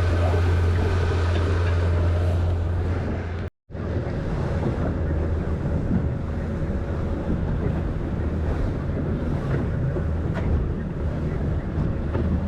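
Fishing boat's engine running with a steady low hum, wind buffeting the microphone and waves washing against the hull. The sound cuts out completely for a split second about three and a half seconds in, then the same engine and wind noise carry on.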